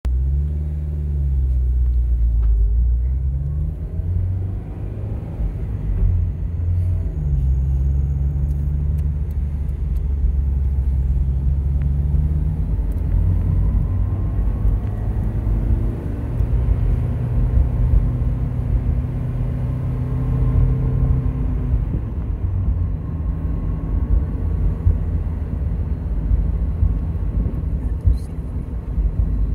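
Honda S2000's four-cylinder engine and tyre rumble heard from inside the cabin while driving, the engine note stepping up and down several times with throttle and gear changes.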